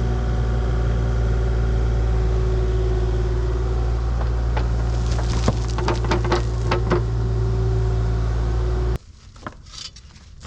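Diesel engine of a piece of earthmoving equipment running steadily, with several clanks and knocks in the middle. About nine seconds in it cuts off abruptly, leaving faint crunching.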